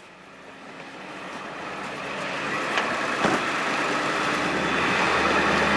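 Ford F550 bucket truck's engine running at raised idle with the PTO engaged, driving the boom's hydraulic pump. The sound grows steadily louder over the first few seconds, with a single sharp click about three seconds in.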